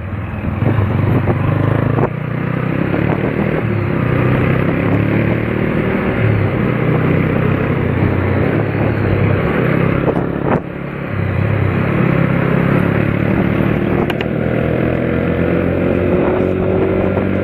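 Motor vehicle engines running loudly and steadily, with motorcycles among them and a few sharp clicks. Near the end the pitch climbs as an engine speeds up.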